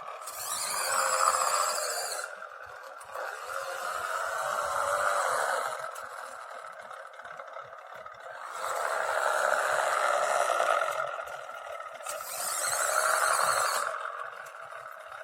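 Simulated engine sound from a Dasmicro sound module played through the small speaker of a 1:16 RC UAZ model, thin and without bass, rising and falling several times as if revving. A high hiss comes in near the start and again about two-thirds of the way through.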